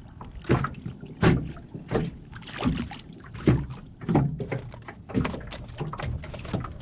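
Irregular knocks and clatter in a small jon boat, roughly one a second, as a small catfish is brought in and landed.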